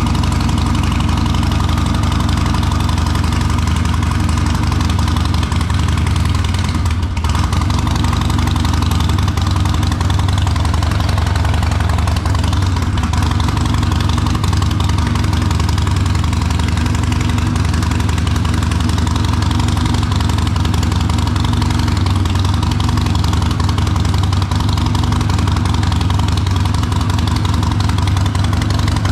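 Harley-Davidson Custom 1200's V-twin engine idling steadily through a Vance & Hines aftermarket exhaust.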